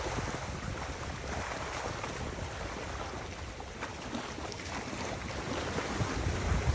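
Wind buffeting the microphone over a steady rush of water, gusting harder near the end.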